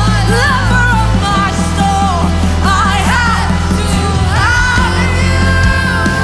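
Live worship band music with a singer gliding between held notes over sustained bass and a steady beat.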